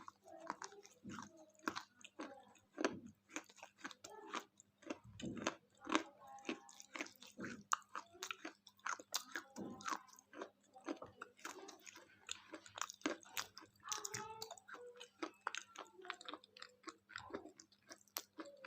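Close-up chewing of a thick KitKat: irregular crisp crunches and crackles of wafer and chocolate between the teeth, with mouth sounds.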